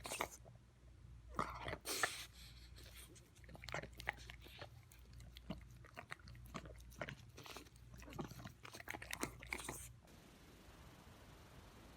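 A dog chewing and crunching on food, with irregular sharp crunches and bites for about ten seconds that stop near the end.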